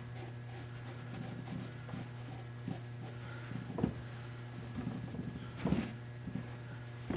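Light knocks and wooden clatter from a wooden machinist's tool chest being handled, the biggest about four and six seconds in, over a steady low hum.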